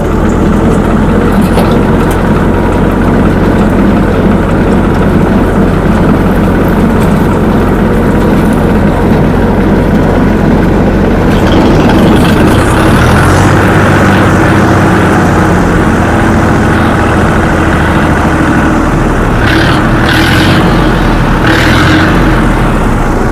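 Tractor diesel engine running steadily, getting a little louder about halfway through.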